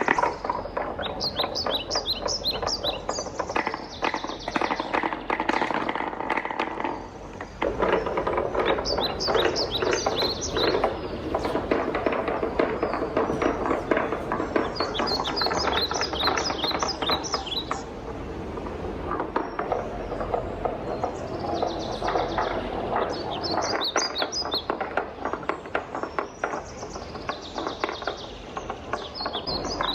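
Wooden balls rolling and clattering down a wooden marble run: a continuous rolling rattle with quick runs of high clicks every few seconds.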